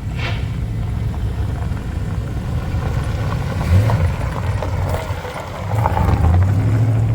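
Old GMC stake truck's engine running with a low rumble, swelling louder about four seconds in and again near the end.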